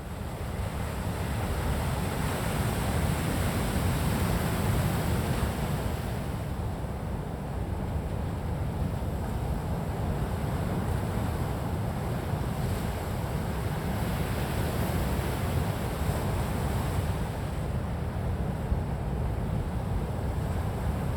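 Gentle sea waves washing on a shore: a continuous wash of surf, a little fuller in the first few seconds, then even.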